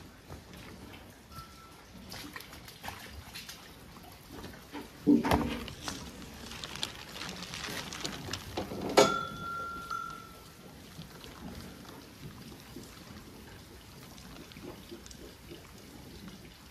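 Running and dripping water with scattered small knocks. There is a louder knock about five seconds in, a hissing rush of water after it, and another knock about nine seconds in followed by a brief steady high tone.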